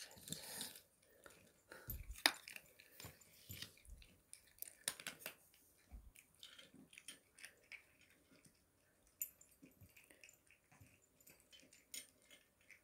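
A kitten chewing and eating its food, heard as faint, irregular little clicks and crunches.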